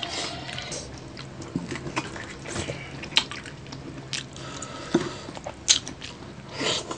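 Close-miked eating sounds: wet chewing, lip smacking and irregular sharp clicks as crispy pork and rice are eaten, with a louder wet burst near the end.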